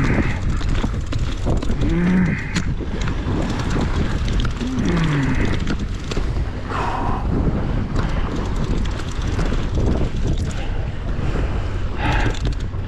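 Steady low rumble of wind buffeting the microphone aboard a boat at sea, with a few short, low, falling voice-like sounds in the first half.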